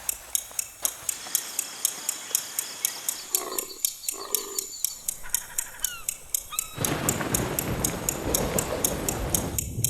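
Outdoor nature sounds: a high chirping repeats about three times a second throughout. Two short animal calls come near the middle, followed by a few brief bird whistles, and a rushing noise sets in about seven seconds in.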